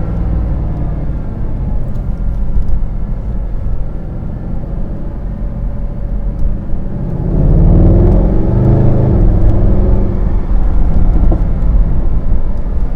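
Mercedes-AMG SLS 63's 6.2-litre V8 running while driving. About seven and a half seconds in, the engine note climbs and grows louder as the car accelerates, then holds at the higher level.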